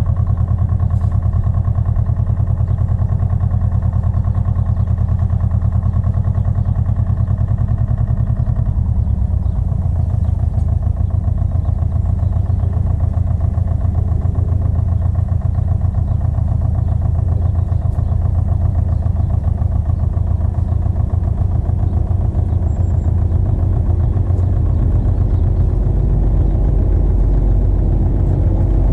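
Pasquali 980 EX two-wheel tractor's engine running steadily under work, its note shifting about eight seconds in and getting deeper and louder near the end.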